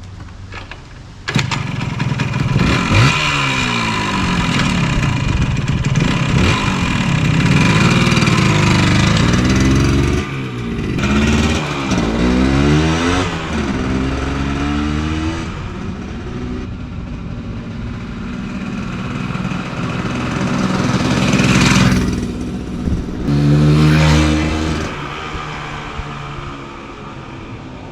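Small two-stroke single-cylinder engine of a 1974 Yamaha DT100 enduro running. It comes in suddenly about a second in, then is revved up and down repeatedly before easing off near the end.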